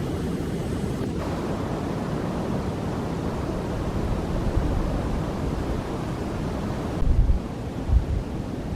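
Steady outdoor rushing noise, with low buffeting on the microphone twice near the end.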